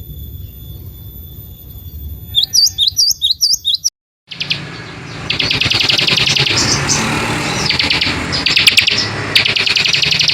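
Recorded songbird calls used for song training. First comes a run of about seven quick, loud, curving whistled notes. After a brief dead gap a different bird sings fast trilled bursts of about a second each, repeated over a low background hum.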